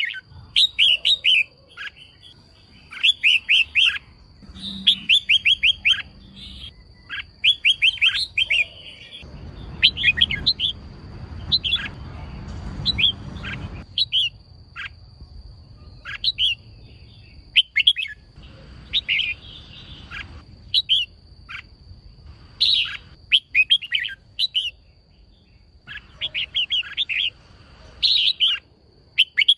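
Female red-whiskered bulbul calling in short bursts of quick chirps, a burst every second or two, over a faint steady high-pitched tone. A low rumbling noise rises under the calls from about nine to fourteen seconds in.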